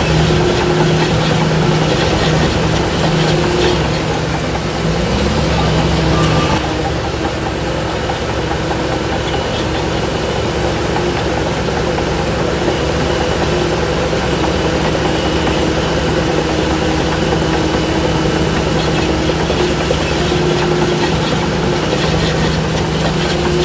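Heavy diesel engine of earthmoving machinery running steadily, its note dropping a little about six seconds in.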